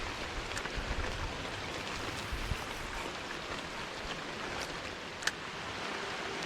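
Rain falling in a steady hiss, with a few sharp ticks of single drops, over running creek water.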